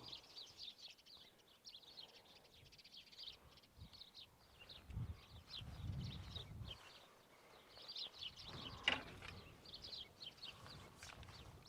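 Small birds chirping and singing, many short high chirps throughout. A soft low rumble comes in the middle, and there is a single sharp knock about nine seconds in.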